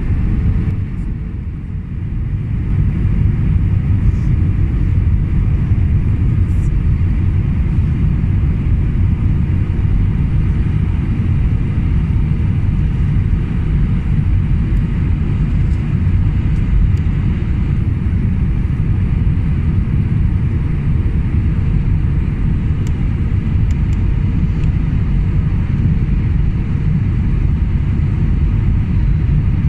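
Steady, loud low rumble inside the cabin of an Airbus A320, heard from a window seat as the aircraft comes in to land or rolls on the ground. It gets louder about two seconds in and then holds steady.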